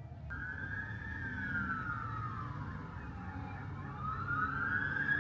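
Emergency vehicle siren in a slow wail, starting abruptly and rising and falling in pitch about once every four seconds, over a steady low traffic rumble.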